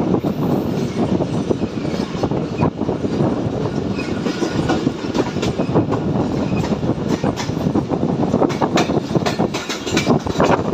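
Train running along the track: a steady rumble with many quick, irregular clicks and clatters from the wheels and cars.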